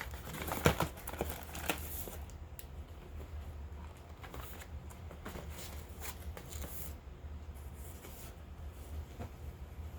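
Hands handling packaging and products during an unboxing: crinkly rustles and light taps, busiest in the first two seconds with one sharper tap just under a second in, then quieter, scattered rustling over a low steady hum.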